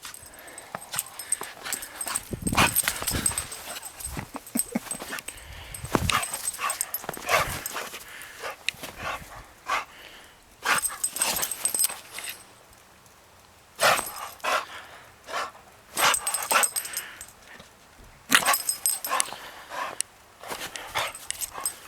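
A dog barking and yipping in short, irregular bursts.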